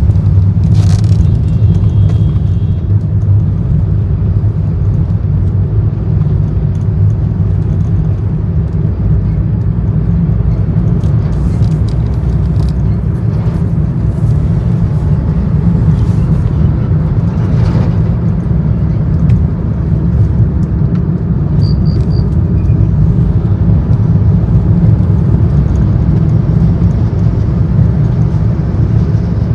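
Steady low road and engine rumble of a car driving along a highway, heard from inside the cabin.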